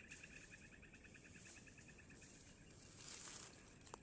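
Insects chirping in a fast, even pulse of about ten chirps a second, fading out after about two and a half seconds. A brief rush of hissing noise follows, then a single sharp click near the end.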